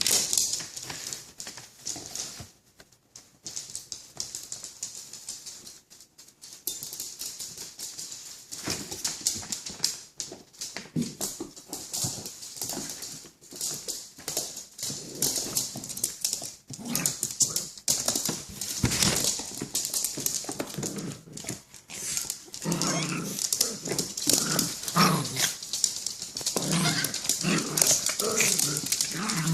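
Puppies playing: short yips and whines, sparse at first and coming thick and loud in the last third, over a constant high scratchy hiss full of small clicks.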